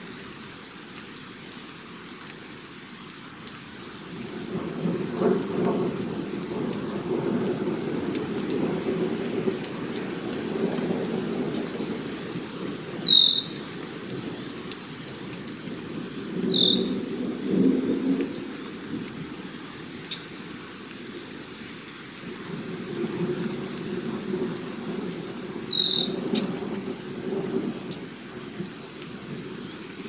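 A bird gives three high, thin whistles, each falling in pitch, the first about a third of the way in and the last near the end, over a low rumbling noise that swells and fades.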